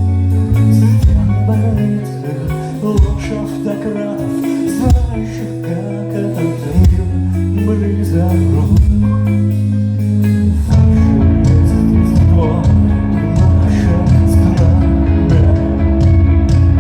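A band playing a song live, with guitar, bass and drum hits; the music thins out and gets quieter about two seconds in, and the full band comes back in about ten seconds in.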